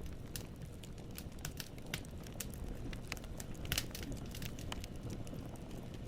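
Wood fire in a fireplace crackling, with irregular sharp pops of burning firewood, a few a second, over a low steady rumble of the flames.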